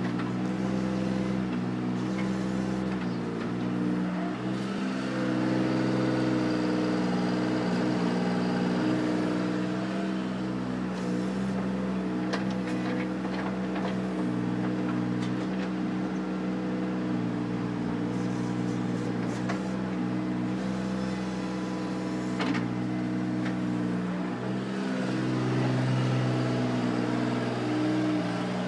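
Mini excavator's engine running steadily under working load while it digs, the level rising and falling a little, with a few sharp knocks and scrapes from the digging.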